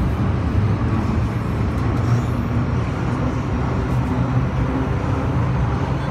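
An MTR M-Train running on the Tsuen Wan Line, heard inside the passenger cabin: a steady low rumble of the train under way, with faint tones coming and going above it.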